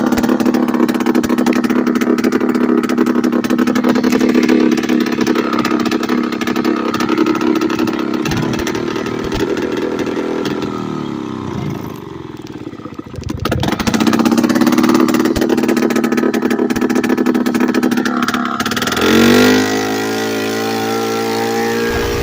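Late-1990s Polaris Explorer two-stroke ATV engine running with no exhaust pipe or muffler, straight out of the exhaust port, while being ridden. Its note drops away about twelve seconds in and climbs back, then changes pitch again near the end.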